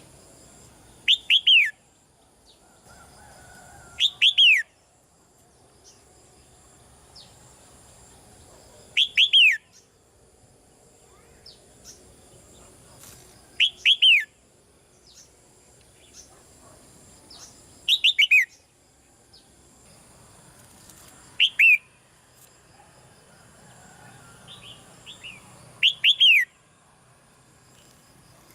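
Red-whiskered bulbul calling: a short, loud phrase of two or three quick notes sweeping down in pitch, repeated seven times at intervals of about four to five seconds.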